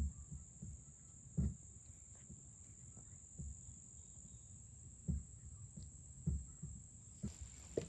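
Insects, likely crickets, keep up one steady high-pitched drone. About five short, dull low thumps come at irregular moments on top of it.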